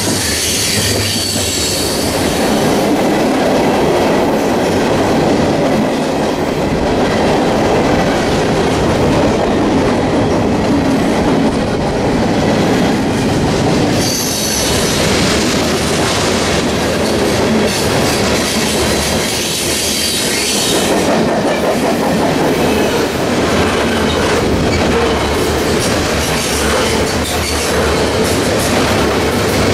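Freight train's covered hopper cars rolling past close by at speed: a steady rumble of steel wheels on rail with clickety-clack over the rail joints. A high-pitched wheel squeal rises near the start and again through the middle.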